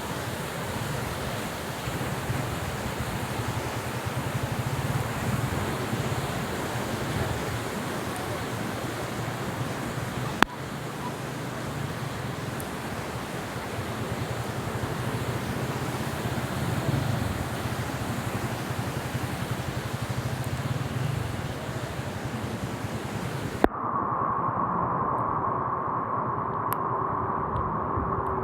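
Floodwater rushing, a steady, even roar of moving water. Near the end it cuts off suddenly and gives way to a quieter scene with a steady high hum.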